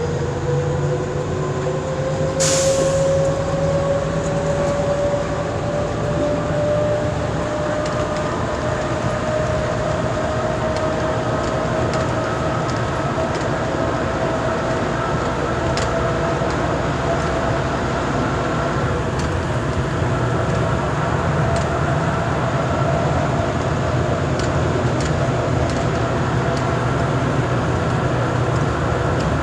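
Automated airport people-mover tram riding along, heard from inside the car: a steady rumble with a whine that rises in pitch as the tram gathers speed over the first several seconds, then holds steady. A short hiss about two and a half seconds in.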